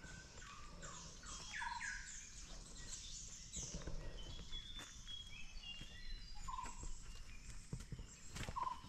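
Several wild birds chirping and calling in forest, one giving a short note that repeats every few seconds. A few short knocks and scuffs come through, the sharpest near the end.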